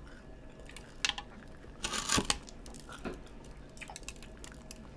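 Quiet chewing of crunchy Hot Cheetos-coated fried mozzarella sticks: a few short crunches and mouth clicks, the loudest about two seconds in.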